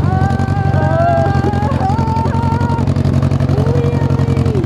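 Tractor engine running steadily with a fast, even firing pulse. Higher held tones that bend come and go over it, mostly in the first two seconds.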